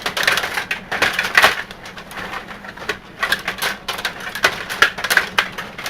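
A Stiga rod table hockey game in play: an irregular run of sharp plastic clicks and clacks as the rods are pushed and spun, the players strike the puck and the puck knocks against the boards.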